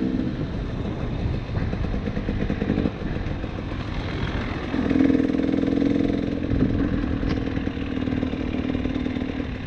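KTM 300 TPI two-stroke dirt bike engine running under way, uneven for the first few seconds, then held at a steady pitch from about halfway through until near the end.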